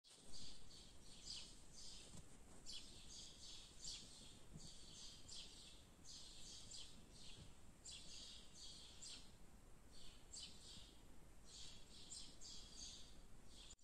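Faint small birds chirping: quick high-pitched chirp series repeating again and again, with short gaps between, over a low background hum.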